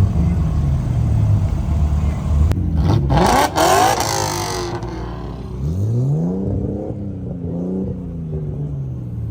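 A car engine being revved hard: its pitch climbs and falls. A loud, harsh burst of noise comes about three to four seconds in, then another rev about six seconds in that sinks slowly.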